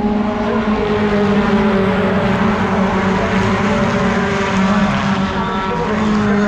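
Racing pickup truck engine running at steady high revs, its pitch holding nearly level with small dips.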